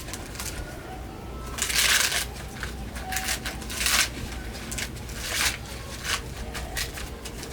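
Dry leaves rustling and crackling in irregular bursts, loudest about two and four seconds in, with scattered small snaps in between.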